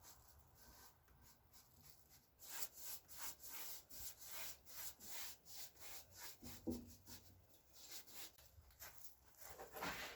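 Quick rubbing strokes on a hard surface, about three a second, starting about two seconds in, with a louder stroke near the end.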